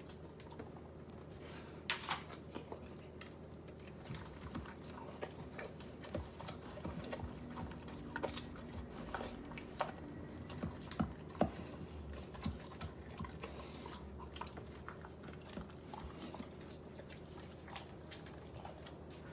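A dog chewing and biting lettuce, with irregular short clicks and crunches scattered throughout.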